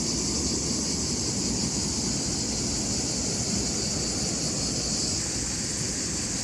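Steady, unbroken chirring of a cricket chorus over a low, steady rushing noise.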